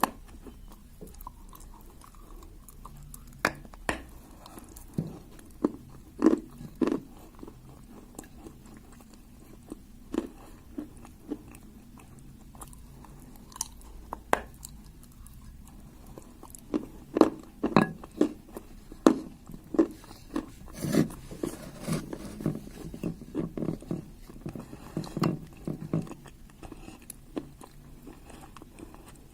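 A person biting and chewing pieces of clay: short, sharp crunches at irregular intervals, sparse for a while in the middle and coming thick and fast in the second half.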